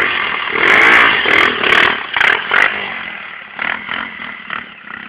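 Small motorcycle engine revved in a few quick throttle blips, then dropping back and fading.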